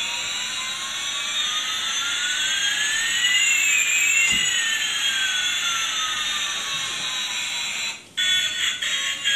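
Battery toy aeroplane's electronic jet sound effect: a steady hiss with two tones gliding across each other, one rising and one falling over about eight seconds. It cuts off abruptly near the end, and the toy's electronic tune starts up.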